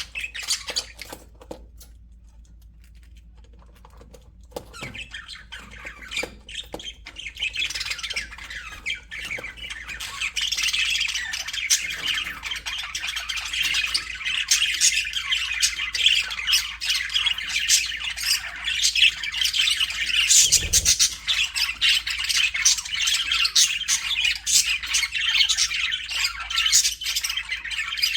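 A flock of budgerigars chattering and squawking: sparse calls at first, building to dense, continuous chatter from about a third of the way in. A brief low bump comes about three-quarters of the way through.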